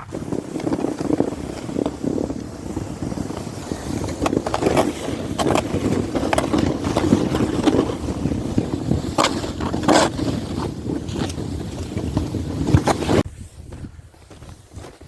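Sled sliding down a snowy slope: a continuous scraping rush over the snow with wind on the microphone and scattered knocks, cutting off abruptly about 13 seconds in.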